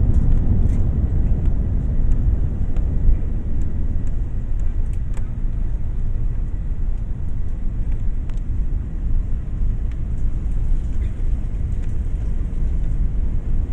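Steady low rumble of an airliner on the ground just after landing, heard from inside the cabin, with a few faint ticks.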